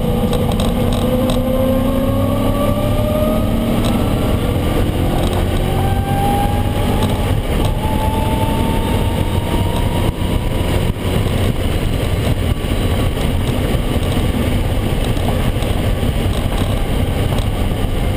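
Ford Mustang road race car's V8 engine running under hard throttle on track, its pitch climbing through the revs over the first few seconds and climbing again from about six to ten seconds in.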